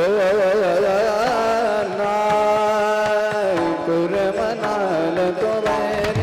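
Devotional kirtan singing: a high voice sliding through wavering, ornamented notes and holding one long steady note in the middle, over a steady accompanying drone.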